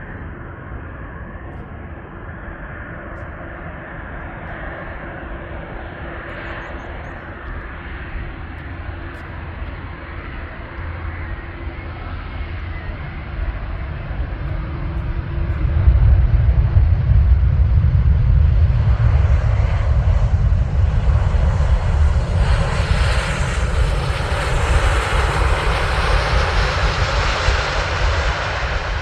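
Jet airliner's engines drawing near, a low rumble that grows steadily louder and jumps up about halfway through. A rising hiss joins it in the second half.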